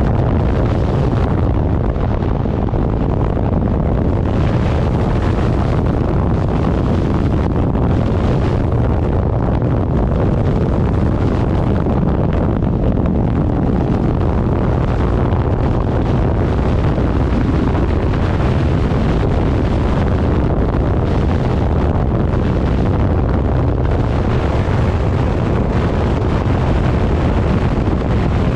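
Loud, steady wind noise buffeting the microphone on a moving motorcycle, with road and engine noise mixed in underneath.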